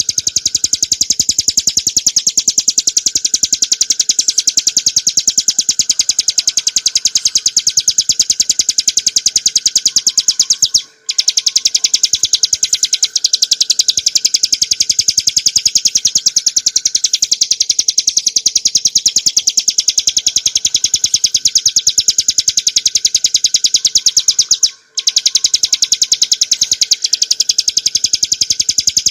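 Ciblek gunung, a prinia, singing a fast, unbroken stream of high, rapidly repeated notes. The song breaks off briefly twice, about 11 and 25 seconds in.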